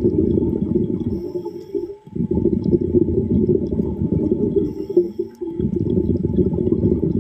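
Underwater rumble of a diver's exhaled air bubbles, breaking off briefly twice, about two seconds in and again about five and a half seconds in.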